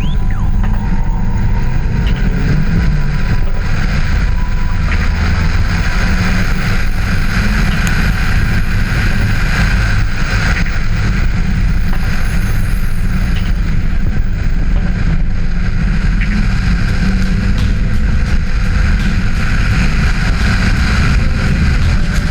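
Turbocharged Audi rally car driving, its engine and road noise under a heavy, steady rumble of wind on an onboard camera microphone.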